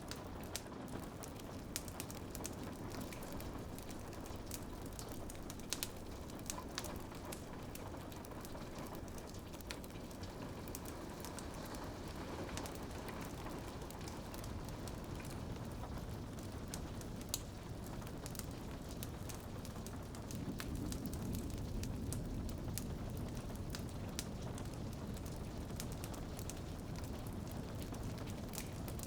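Rain on a window mixed with a crackling fireplace: a steady hiss scattered with many small sharp pops and ticks. The low, full part of the sound swells noticeably about two-thirds of the way through.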